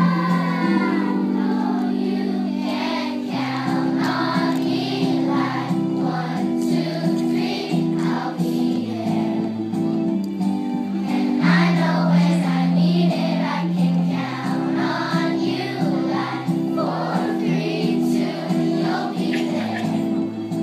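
A choir singing a song over steady held chords of accompaniment.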